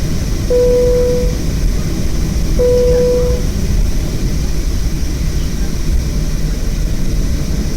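Steady low rumble of a Boeing 737-500 heard from inside the cabin. Two identical single-tone cabin chimes sound about two seconds apart, each ringing for just under a second and fading.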